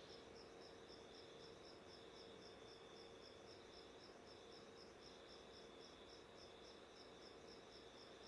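Faint insect chirping: an even pulse about five times a second, with a second, lower trill that comes and goes, over a faint steady hum.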